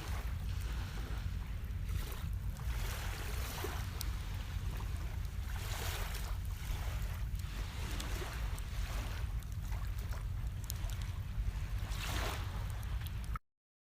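Sea waves washing in on a shore, coming in repeated swells, with wind rumbling on the microphone; the sound cuts off suddenly near the end.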